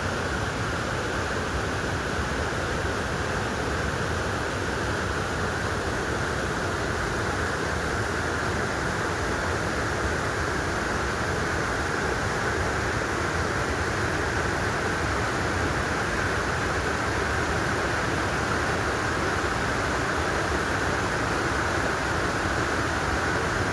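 Steady rushing of a mountain stream flowing over rocks, an even hiss of water that does not change.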